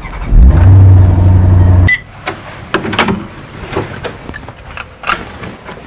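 Car engine starting and running at a steady fast idle for about a second and a half, then cutting off abruptly. After it come a few scattered knocks and clicks.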